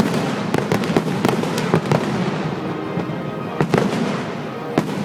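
Aerial fireworks display: a rapid, irregular string of sharp bangs and crackling bursts, several a second, with the loudest near the start, just before the middle and near the end.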